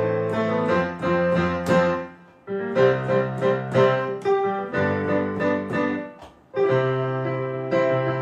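Piano playing sustained chords in an instrumental break of a song, with two brief near-silent gaps, a little after two seconds and about six seconds in.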